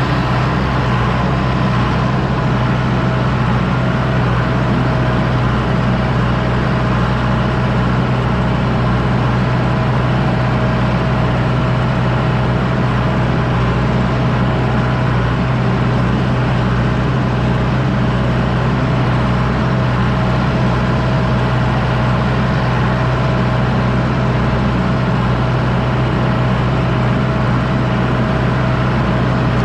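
John Deere 6110D tractor's diesel engine running steadily under load, with an even low hum, while pulling a disc harrow.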